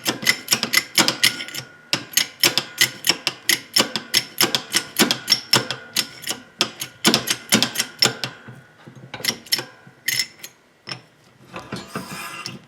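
A rapid, irregular run of sharp metallic clicks and taps from hand-tool work on a VW front beam, several a second for about eight seconds, then thinning to a few scattered clicks.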